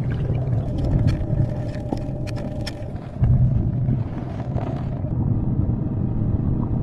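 A low steady rumble with scattered light clicks. It dips briefly about three seconds in, then comes back louder.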